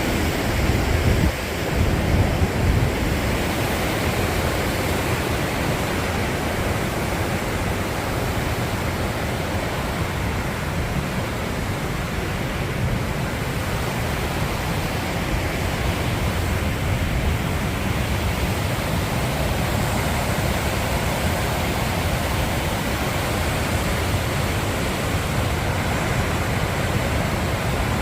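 Waterfall rushing in a steady, even noise, with a few brief low buffets on the microphone in the first three seconds.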